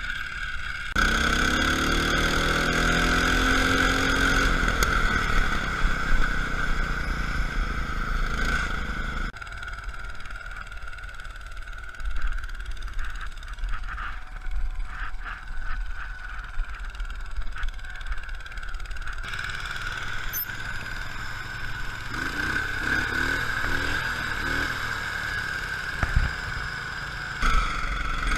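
Small lawn tractor engine running and revving, its pitch rising and falling, over a steady high whine. It drops quieter for about ten seconds in the middle, then picks up again.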